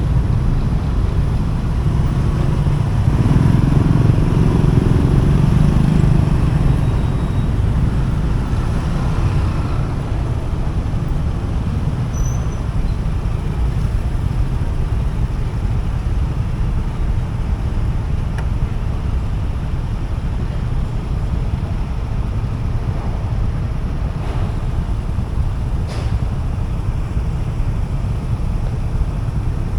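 Motorcycle riding in highway traffic: steady low wind rumble on the microphone mixed with engine and road traffic noise. It swells louder for a few seconds starting about three seconds in.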